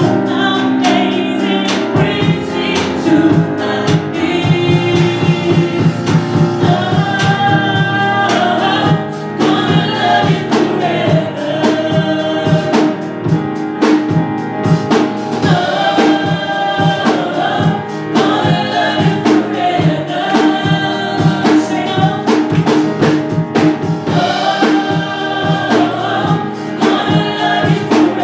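Gospel choir singing a praise song in several voices over a band, with a drum kit keeping a steady beat that comes in about two seconds in.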